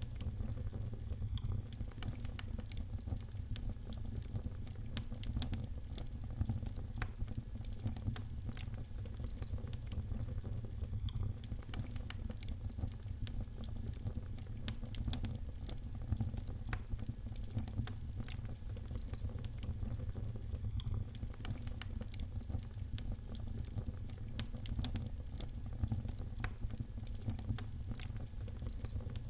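Fire crackling in a fireplace: a steady low rumble of flames with many small, sharp crackles and pops at irregular intervals.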